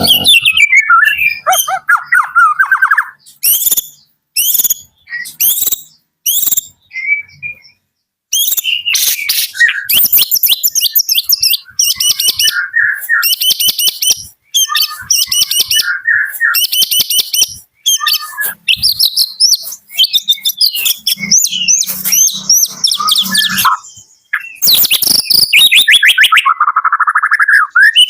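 White-rumped shama (Medan-type murai batu) singing: a few short, spaced notes, then long runs of rapid trills and high whistled phrases with brief pauses between them.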